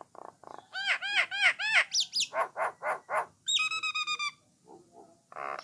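Jalak Nias starling singing: a fast run of repeated arched chirps, then a longer held whistle about three and a half seconds in, followed by quieter short calls and a brief buzzy note near the end.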